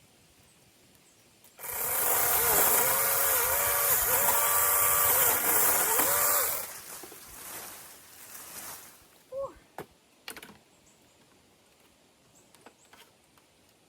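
A small power saw runs and cuts through a tree branch for about five seconds, its motor pitch dipping briefly several times under load, then stops abruptly. A few light knocks follow.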